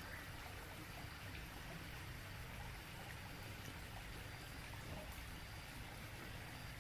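Steady trickling and splashing of a small garden waterfall running into a fish pond.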